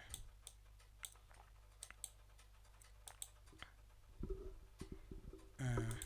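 Faint computer keyboard typing and mouse clicks, scattered short clicks with a few low knocks about four seconds in.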